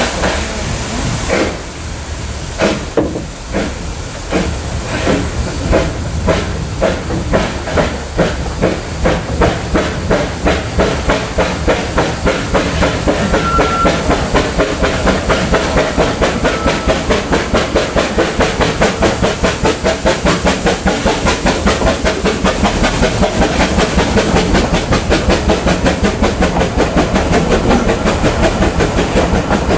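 Vale of Rheidol Railway 2-6-2T steam locomotive No. 8 starting away: a loud hiss of steam at first, then chuffing exhaust beats that quicken steadily from about one a second to several a second as the train gathers speed.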